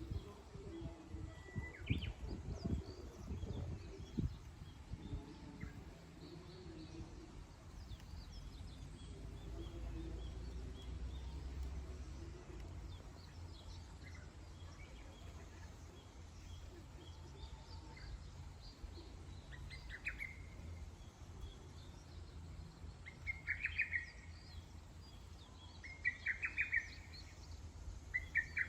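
Wild birds chirping with scattered short calls, and a few louder rapid trilled calls in the second half, over a steady low background rumble.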